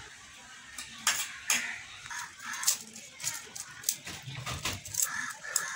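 Scattered light clinks and taps of a utensil against a bowl, a dozen or so irregular sharp knocks.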